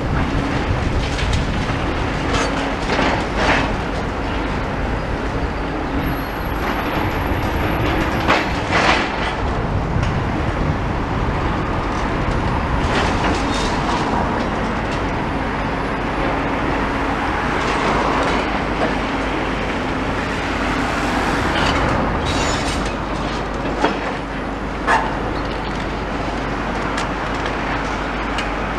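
Heavy demolition excavator running steadily at work, with a few sharp knocks of debris being broken or dropped.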